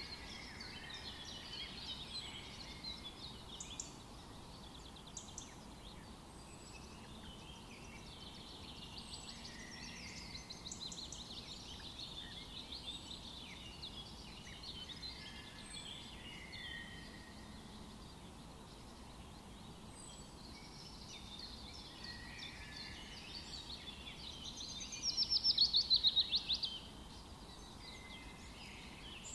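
Several wild birds singing and chirping over a faint steady background hiss, with one louder rapid trill near the end.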